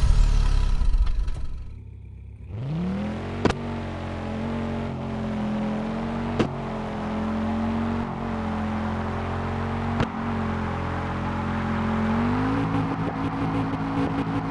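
Race car engine sound effect revving up and then running at a steady pitch, with a few sharp clicks. Near the end it steps up to a higher, steady note. It follows a loud noise that fades over the first second or so.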